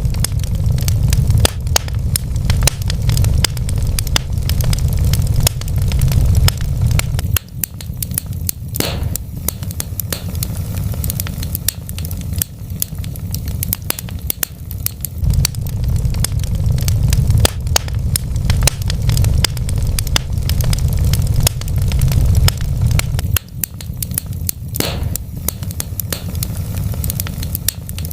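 Wood fire in a fireplace crackling steadily, with many small irregular pops and a couple of louder snaps, over a low rumble that swells and eases.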